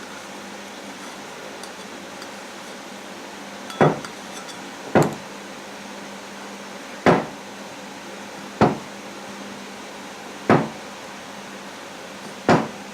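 Six sharp knocks, one every one to two seconds, as a greased cylinder sleeve with new O-rings is tapped down into the engine block of an International Harvester 354 tractor.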